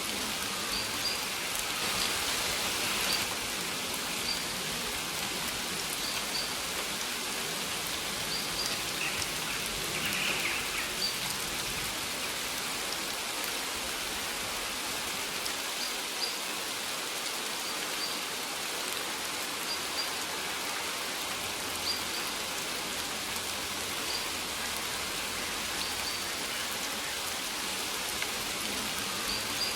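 Steady rain falling, an even hiss of drops. Faint short high bird chirps recur every second or two.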